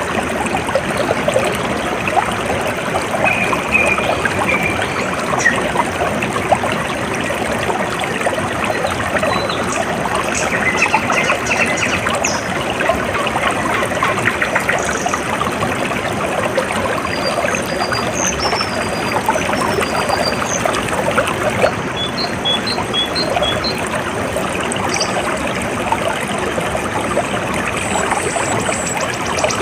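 Water trickling steadily, like a small stream, with scattered short, high bird chirps over it, including a quick run of about five notes a little past the middle.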